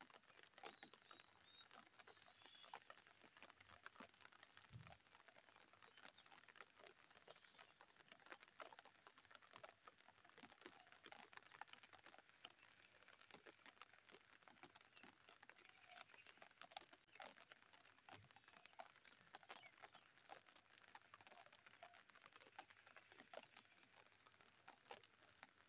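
Light rain pattering faintly: a dense, even scatter of tiny drop ticks with no pauses.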